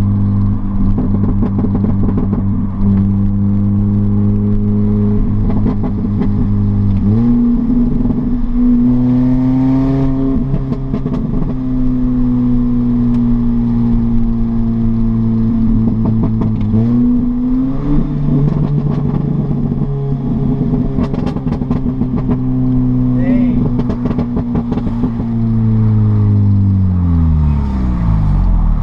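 Straight-piped exhaust of an R53 Mini Cooper S's supercharged 1.6-litre four-cylinder, with the muffler deleted, running at steady cruising revs. The engine's pitch steps between gear changes a few times and falls away near the end as the revs drop.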